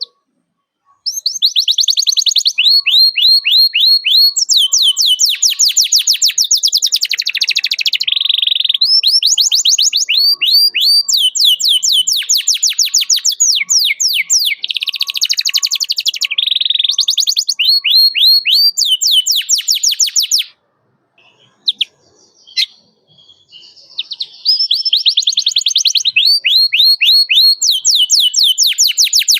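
Domestic canary in full song: fast trills of repeated, sharply falling whistled notes, one phrase after another. It breaks off for a few seconds about two-thirds of the way through, then resumes.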